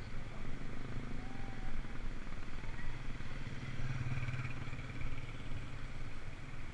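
A motor vehicle's engine running steadily, a little louder about four seconds in.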